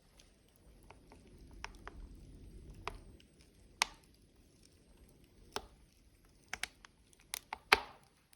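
Burning logs crackling in a wood fire: irregular sharp snaps and pops, the loudest near the end, over a soft low rumble in the first few seconds.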